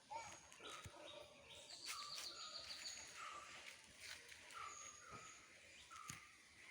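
Near silence with faint, short bird chirps repeating through it and a few light clicks.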